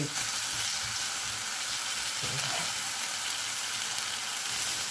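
Sliced zucchini and bell pepper frying in oil in a ceramic-coated frying pan, giving a steady sizzle.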